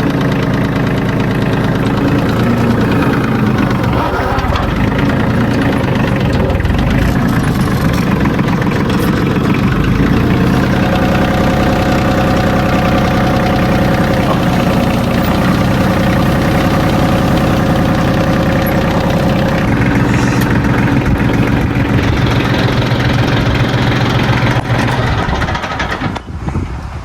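Tractor engine running steadily at working speed, its pitch shifting a few times as the revs change, then cutting off abruptly at the end.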